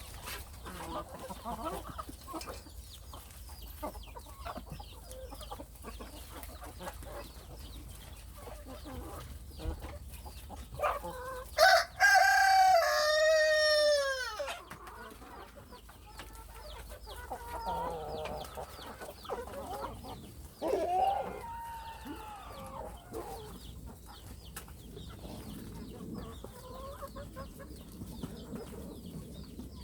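Chickens clucking softly, with a rooster crowing once, loudly, about twelve seconds in: one long call of about three seconds that falls in pitch at the end. A shorter, quieter call follows later.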